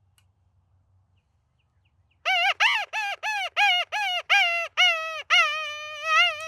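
A predator call sounding a run of about ten loud, pitched distress cries, roughly two a second, each bending down at its end; it starts about two seconds in after near silence.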